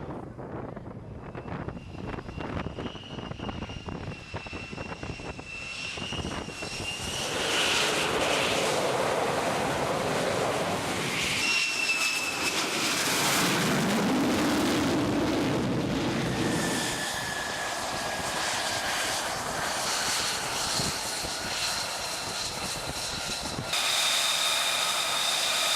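F-35C jet engine (a Pratt & Whitney F135 turbofan) running on a carrier flight deck: a steady high whine over a broad roar. The sound changes abruptly several times, getting louder about seven seconds in and again near the end.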